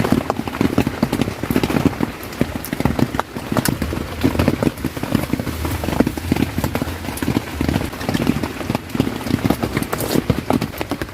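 Heavy rain: a dense, irregular patter of large drops striking close by, over a steady hiss of rainfall.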